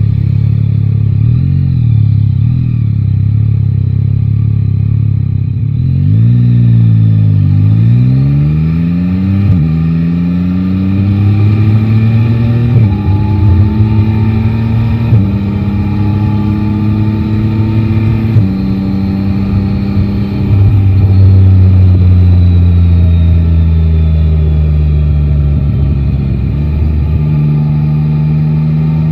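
Yamaha Tracer 9 GT's three-cylinder engine running at low revs for several seconds, then pulling away hard. The pitch climbs and drops back with each of four quick upshifts, then settles into a steady cruise that eases off and picks up again near the end.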